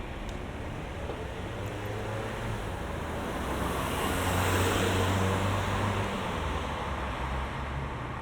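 Road traffic noise with a low engine hum, a vehicle passing close by about halfway through, the noise swelling and then fading.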